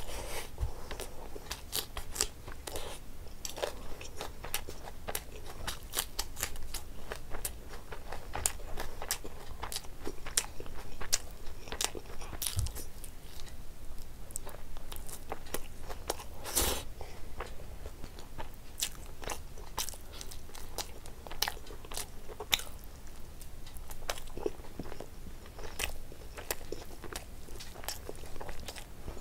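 A person eating: chewing and biting mouthfuls of rice, curry and meat, heard as a steady stream of small, sharp wet mouth clicks.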